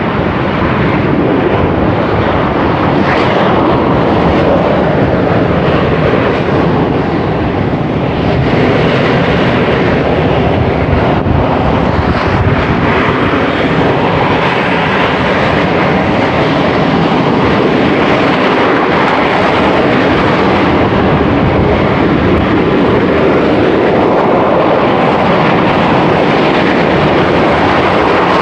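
Semeru volcano's crater venting ash continuously: a loud, steady rush of noise that holds without a break.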